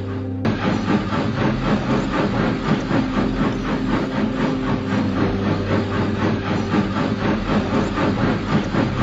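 Steam locomotive running along, its exhaust chuffing in a quick, even rhythm of about five beats a second over a steady low hum.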